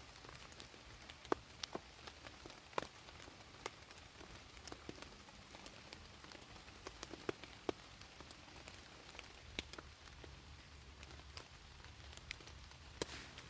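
Raindrops falling and dripping in an irregular patter: scattered single drops with a faint hiss of rain behind them.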